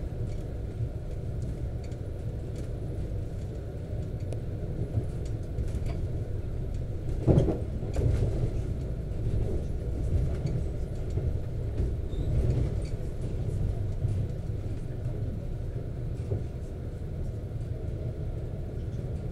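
Steady low rumble of a double-decker passenger train running at speed, heard from inside the carriage, with one sharp knock about a third of the way in.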